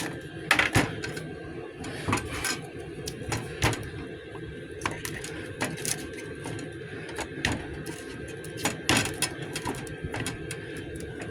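Irregular clicks, taps and clatter of small objects and containers being handled, over a steady low hum.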